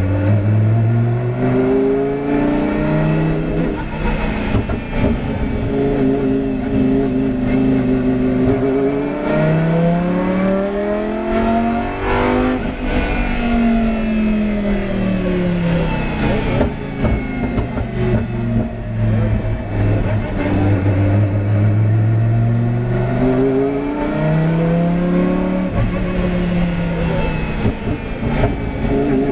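Lamborghini Huracán GT race car's 5.2-litre V10 engine being driven hard. Its pitch repeatedly climbs under acceleration and drops off through shifts and lifts, peaking about halfway through.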